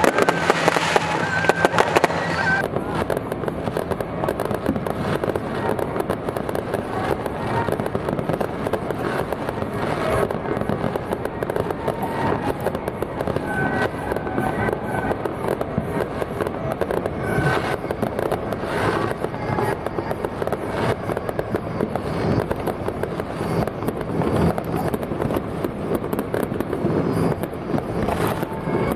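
Fireworks and firecrackers going off without pause for the whole stretch, a dense run of crackles and pops.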